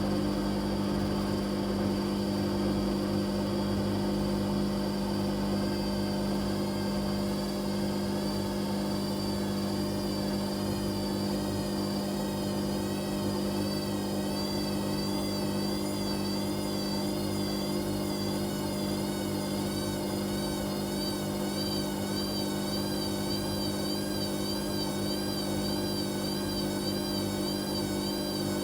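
Whirlpool Indiana 1400 washing machine's drum motor running steadily at speed with no pauses: a steady deep hum under a high whine that wavers slightly in pitch.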